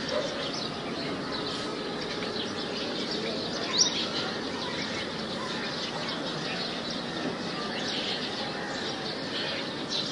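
Outdoor ambience with small birds chirping now and then over a steady background hiss, with one sharper chirp about four seconds in.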